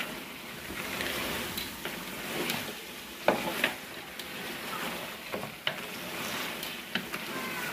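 Chicken and masala sizzling and hissing in a large aluminium cooking pot as it is fried down with splashes of water, with a wooden spoon stirring and scraping, knocking against the pot a few times.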